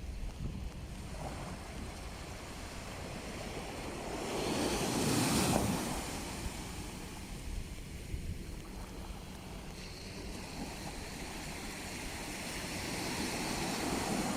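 Sea waves breaking on the shore: one wave swells and crashes about five seconds in, and another builds toward the end. Wind rumbles on the microphone underneath.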